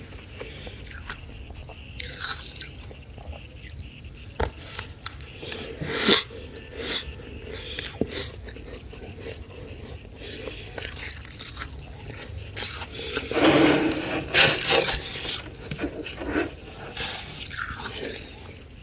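Deep-freezer frost being scraped and chewed, giving irregular crunches, with a louder run of crunching about thirteen to fifteen seconds in.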